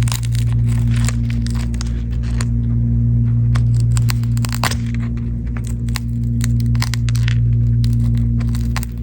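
A steady electrical hum with many irregular sharp cracking and crackling clicks over it, as a broken phone's cracked glass is worked on during a repair.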